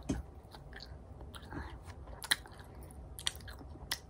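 Quiet chewing of a small candy, with scattered soft mouth clicks; the sharpest click comes a little past halfway.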